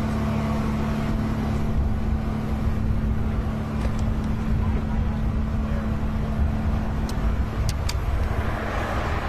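Steady engine drone with a low hum, cutting off suddenly at the end.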